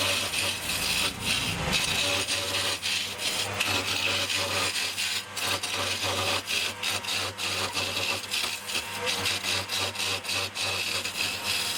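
Wood lathe running with a steady motor hum while a turning tool cuts the spinning wood: a continuous scraping hiss broken by many quick, irregular ticks.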